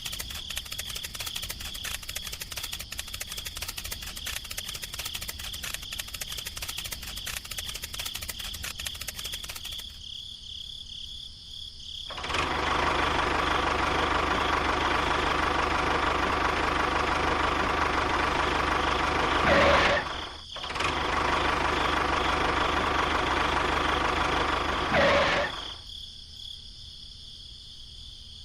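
Small engine of a home-built mini tractor running steadily and loud for about thirteen seconds, with a brief break near the middle, after a stretch of fast, even ticking.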